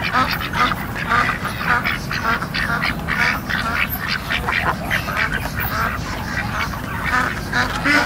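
A large flock of domestic ducks quacking, many short calls overlapping into a constant din without a break.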